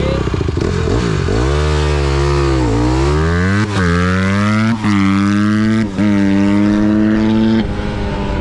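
Honda CRF150R dirt bike's single-cylinder four-stroke engine at full throttle from a standing start, revs climbing through the gears with three quick dips at the upshifts. The revs hold high, then drop as the throttle is closed near the end.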